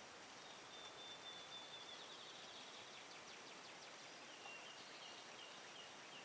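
Faint small-bird song over quiet background hiss: one long thin high whistle, then a rapid trill, then a few short repeated notes near the end.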